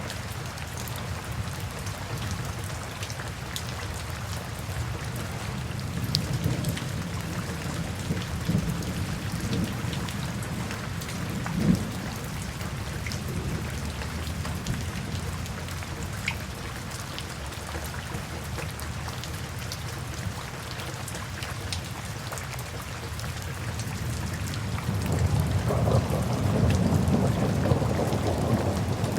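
Steady rain with scattered drop ticks, under low rolls of thunder that swell a few seconds in and build again, louder, near the end.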